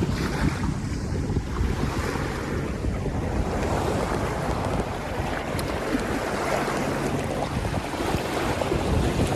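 Wind buffeting the microphone over water rushing and splashing along the hull of a sailboat under way.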